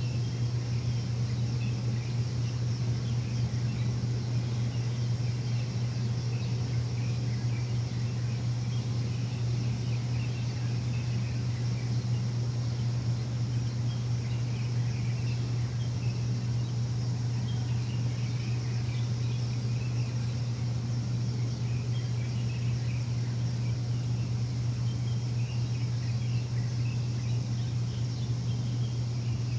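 A steady, low machine hum that runs without change, with birds chirping faintly over it.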